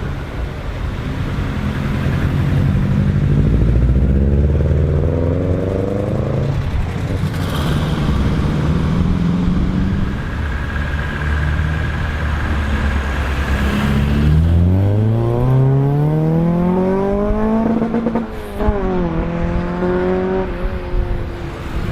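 Car engines accelerating away. The pitch climbs through the revs once in the first few seconds, then climbs again more steeply after the middle, breaking off at a gear change and levelling out near the end.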